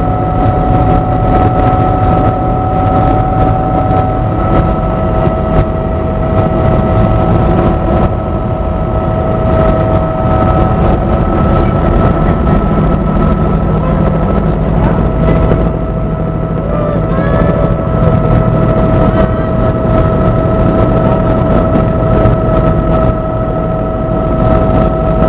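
Helicopter in flight: loud, steady engine and rotor noise with a few constant high tones running over it.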